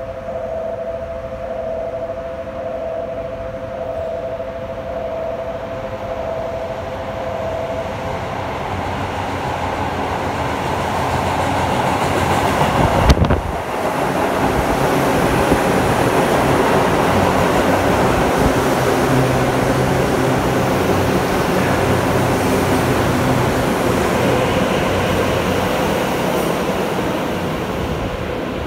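Express commuter train passing through an underground station at speed without stopping. The rumble builds from the tunnel to a sudden loud blast about halfway through, as the front reaches the platform. A dense rumble of wheels on rails follows as the cars go by, fading near the end.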